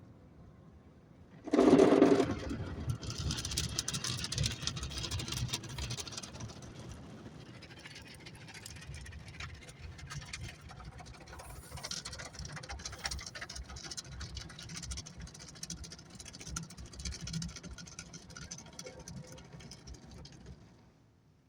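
Car wash equipment running: a sudden loud start, then a steady mix of hissing spray and low mechanical rumble with rattling, which stops shortly before the end.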